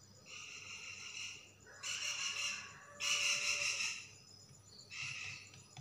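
A bird calling four times, each call a high, even-pitched note about a second long.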